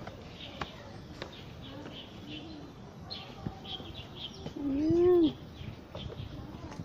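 Small birds chirping in quick, repeated short notes. About five seconds in comes one louder call, a short tone that rises and then falls.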